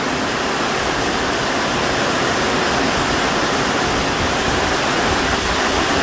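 Torrential rain pouring down on a corrugated metal porch roof and streaming off its edge onto the ground, a steady loud rushing.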